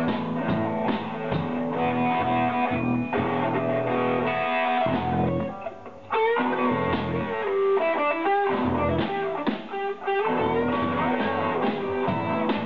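Live band playing electric-guitar-led blues rock. The music thins out and drops briefly about halfway through, then comes straight back in.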